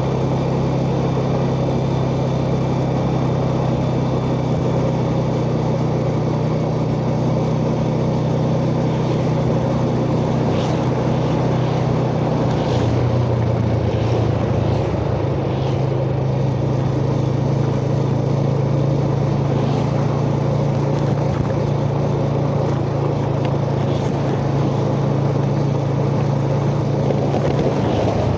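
Yamaha Jupiter Z underbone motorcycle's single-cylinder four-stroke engine running steadily under way, heard from the rider's chest, over wind and road noise. The engine note shifts about twelve seconds in, then holds steady again.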